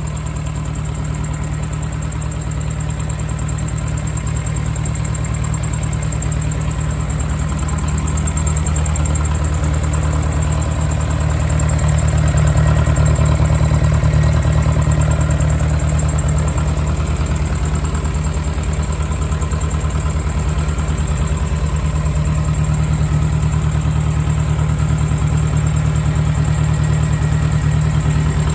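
1978 Leyland 154 tractor's diesel engine running at a steady idle, a little louder around the middle.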